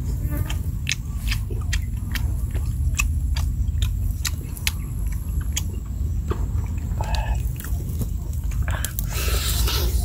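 Close-up wet chewing and lip-smacking of roast beef eaten by hand, a run of short sharp clicks, with a louder bite near the end. A steady low rumble sits underneath.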